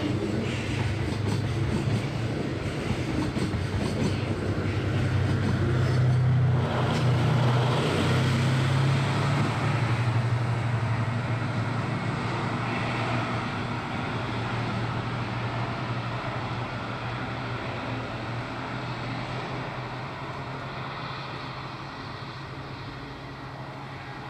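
Diesel-hauled freight train running by: a steady low diesel engine drone with rumbling, clattering wheels. It grows loudest a few seconds in, then gradually fades away as the train recedes.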